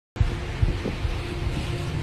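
Wind buffeting the microphone in irregular low thumps over a constant rushing noise, with a faint steady machinery hum aboard a ship.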